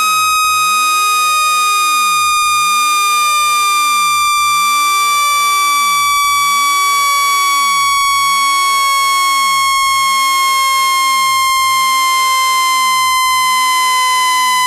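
Loud continuous electronic tone, a speaker water-eject tone, with a strong buzzy overtone stack. Its pitch slowly falls from about 1.2 kHz to about 1 kHz.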